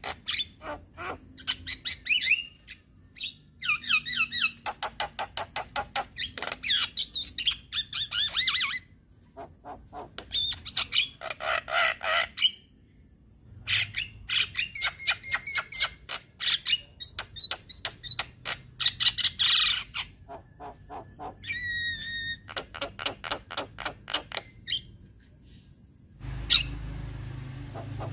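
Javan myna song: rapid runs of clicking rattles mixed with harsh chatter and whistled notes, in bursts with short pauses between them. Near the end a low hum comes in under the calls.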